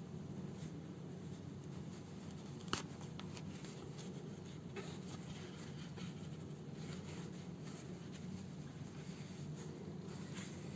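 Hand-sewing a torn fabric house slipper: faint scratchy rustles of needle and thread being drawn through the cloth, with one sharp click a little under 3 seconds in, over a steady low hum.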